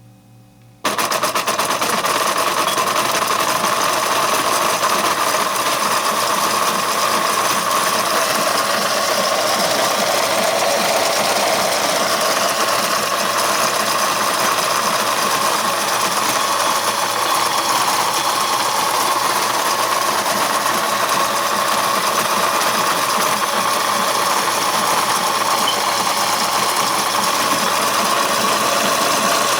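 New Bright G-scale toy train running on its track: a steady, loud whirring from its small electric motor and gearing, with rapid fine clicking. It starts suddenly about a second in.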